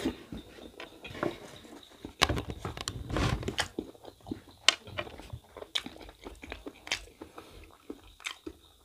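Close-miked chewing and crunching of a mouthful of mutton innards curry and rice, with many sharp, irregular mouth clicks.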